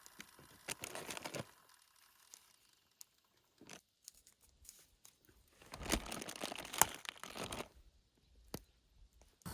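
Two short bursts of crunching and crinkling with sharp clicks, about a second in and again from about six to nearly eight seconds in, with a few single clicks between.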